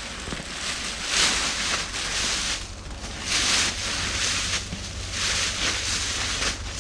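Rustling and crinkling of a thin reflective plastic emergency tent being handled, coming in several uneven swells of hiss.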